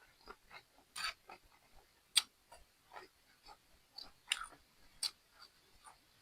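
A person chewing crunchy food close to the microphone, stir-fried octopus and asparagus. Irregular wet mouth clicks with a few sharper crunches, the loudest about a second in, twice more past the middle and again near the end.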